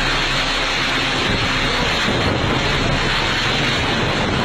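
Loud, steady rushing noise with a low hum beneath it.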